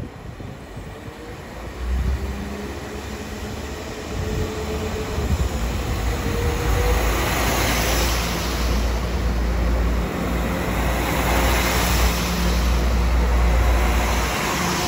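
Passenger multiple-unit train approaching and running in alongside the platform: a steady low rumble with a faint hum that grows louder from about two seconds in.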